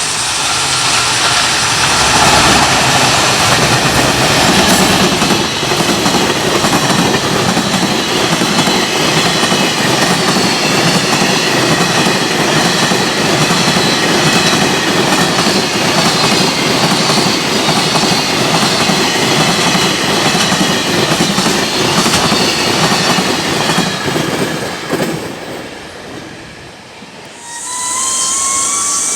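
Freight train passing at speed close by: a long, loud run of wheels clattering over the rail joints and the wagons rattling, which fades away near the end. Just before the end, a new rising whine begins.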